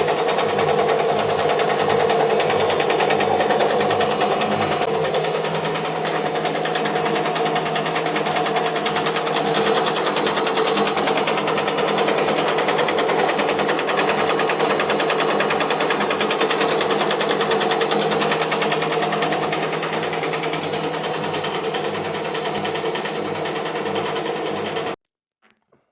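Indesit washing machine spinning, with a steady hum and a fast, continuous knocking-rattle. The knock comes from a part catching on the drum, as the repairer later finds. The sound cuts off suddenly near the end.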